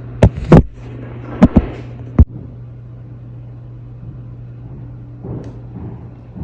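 Construction banging coming through the building: five loud, sharp bangs in the first two seconds or so, in pairs and singly, then fainter scattered knocks near the end, over a steady low hum.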